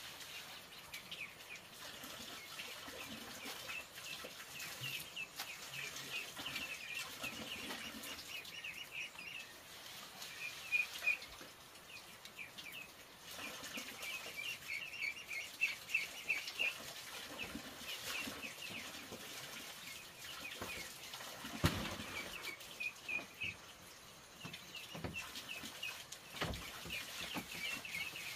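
Birds chirping steadily in quick runs of short, high calls, with a few single knocks.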